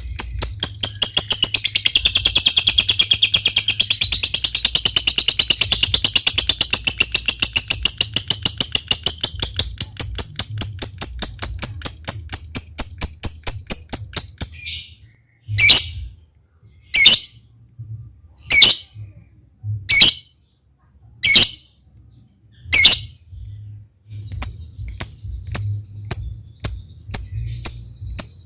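A lovebird's ngekek: a long, rapid chattering trill of high notes lasting about fourteen seconds and cutting off suddenly. It then gives single sharp calls about one every second and a half, and near the end a quicker run of short ticking notes (ngetik).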